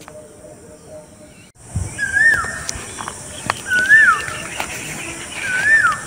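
A bird's clear whistled call, repeated three times at even spacing. Each note rises and then falls. A few sharp clicks sound between the calls.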